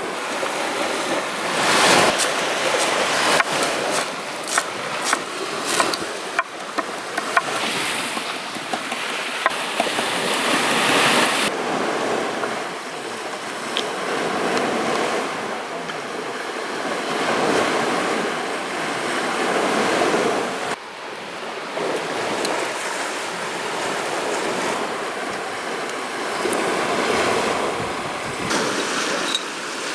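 Sea waves washing onto the shore, swelling and ebbing every few seconds, with wind on the microphone. A scatter of sharp clicks runs through the first ten seconds or so.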